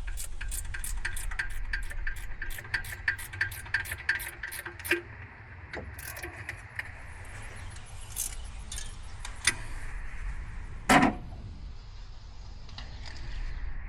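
Ratchet wrench clicking steadily, about four to five clicks a second, as a bolt is turned on the engine, stopping about five seconds in; a few scattered tool clicks follow and a single loud metal clank about eleven seconds in.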